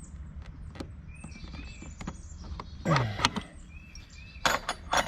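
A wrench working on a stuck brake master cylinder bolt: scattered metal clicks and small squeaks, with two short strained grunts of effort about three seconds and four and a half seconds in.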